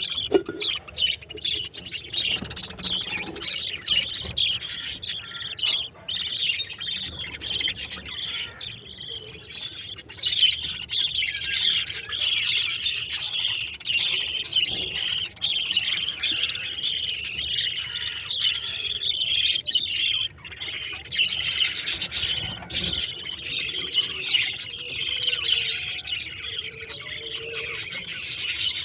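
A group of small birds chirping, with many quick, high calls overlapping without a break.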